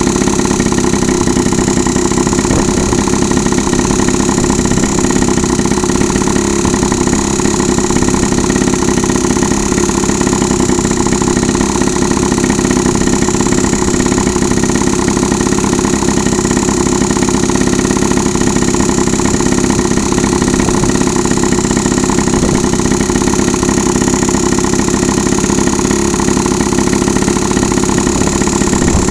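Honda Dio AF-27 scooter's 50cc two-stroke single-cylinder engine idling steadily through a DIY expansion chamber exhaust.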